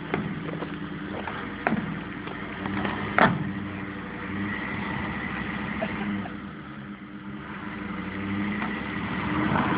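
Truck engine running steadily at low revs, with a couple of sharp knocks, the loudest about three seconds in. The engine gets a little louder near the end.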